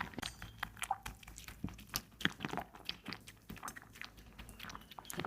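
A kitten chewing and biting meat: quick, irregular clicks of eating, several a second.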